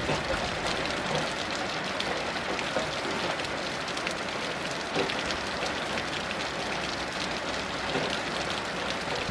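Heavy rain falling steadily, a dense even hiss with many fine drop ticks on a hard surface.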